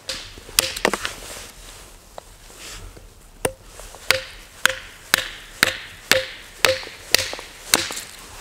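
Firewood being split with repeated sharp strikes: a few blows near the start, then a steady run of about two strikes a second, each with a short ringing knock from the wood.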